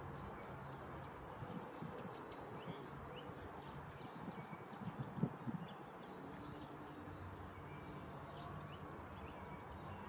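Faint, scattered chirps of small songbirds over a steady background hiss and low hum, with a few soft knocks about five seconds in.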